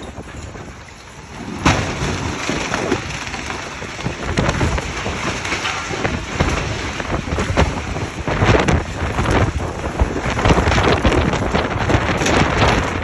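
Strong storm wind gusting against the microphone: a loud, dense rush broken by many sharp crackles, easing briefly about a second in before surging back.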